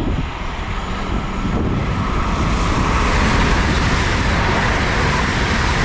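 Hull Trains Class 802 bi-mode train passing through the station at speed without stopping: a loud rush of wheels on rail and air that builds over the first few seconds, with a faint steady whine.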